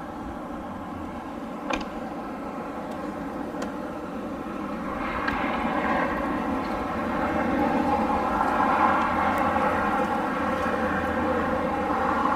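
Wind blowing in a steady rush that swells into a stronger gust from about halfway through. A short click about two seconds in.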